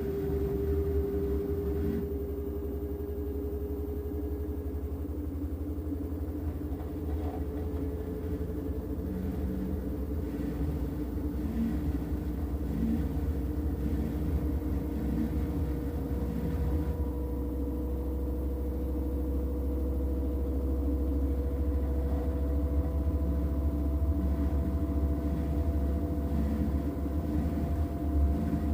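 LG washing machine on its final spin: a low rumble from the spinning drum, with a motor whine that climbs slowly and steadily in pitch as the drum speeds up.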